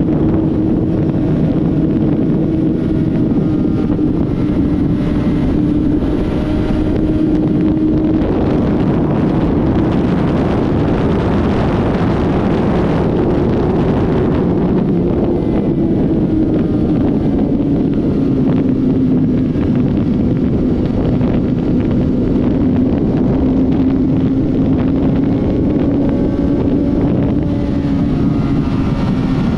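Honda CBR600RR inline-four engine running steadily at part throttle, its pitch sinking and rising gently with easy throttle changes, with wind noise on the microphone.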